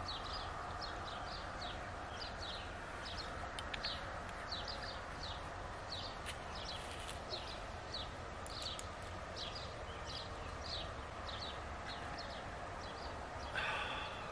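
A small bird calling over and over, short high chirps about two a second, over a steady low rumble. A brief louder call comes near the end.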